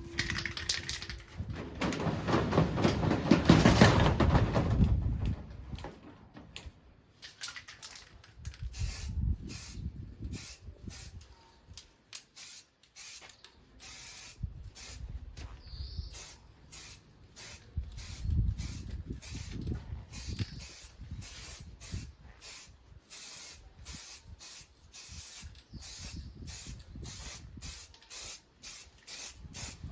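Spray paint being sprayed onto a motorcycle frame in a long run of short, quick spurts, about one or two a second. A louder, lower, noisier stretch of handling noise comes a second or so in and lasts a few seconds.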